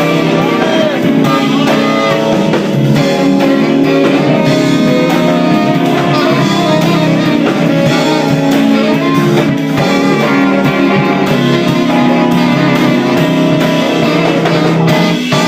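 Loud live band music led by guitar, steady throughout.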